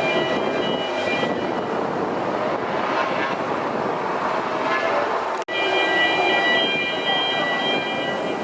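MotoGP racing motorcycle engines running at high revs as track noise, with a few steady high whining tones over a dense engine drone; the sound cuts out for an instant about five and a half seconds in.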